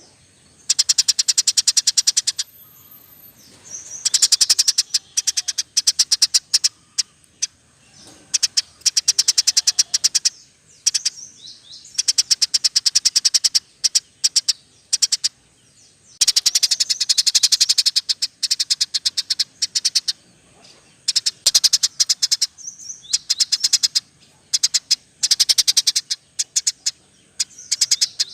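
Small cage birds singing in a bird-song training recording that mixes canary, lovebird and Eurasian tree sparrow. The song comes as repeated bursts of rapid, chattering trills, each a second or two long, with short gaps between.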